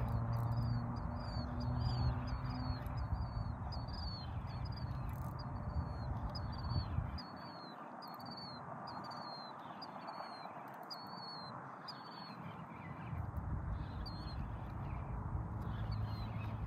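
A bird calling over and over in short, high, hooked notes about one and a half times a second, thinning to a few calls in the last few seconds. Under it is a gusty low rumble of wind on the microphone, which drops away about seven seconds in and comes back near the end.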